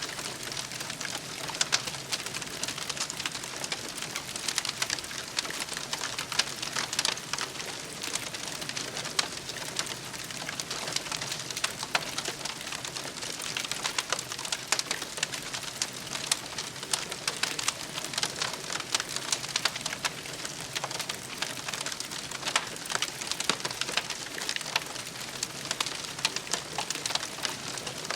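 Wood campfire crackling steadily, with dense irregular pops and snaps.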